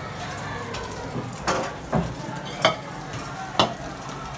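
Food sizzling as it fries in a wok, with four sharp knocks about a second in, at two seconds, near three seconds and past three and a half seconds.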